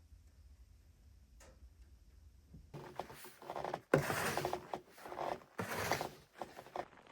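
Faint clicks at first, then from about three seconds in, bursts of crunching and rustling, with one sharp knock in the middle.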